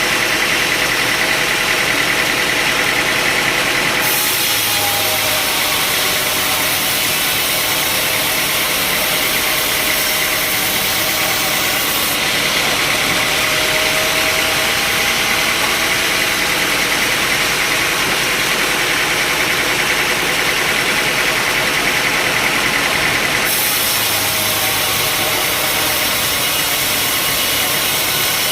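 Sawmill machinery running steadily: a continuous engine-like drone under a dense hiss, with a faint wavering pitch. The sound changes abruptly about 4 s in, again about 12 s in and again near 23 s.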